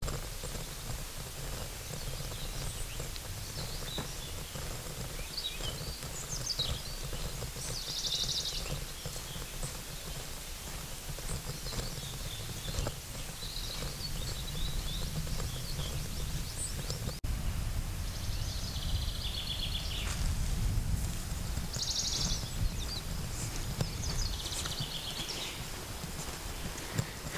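Small songbirds singing short phrases every few seconds over a steady low rumble of outdoor wind noise, with a brief break about two-thirds of the way through.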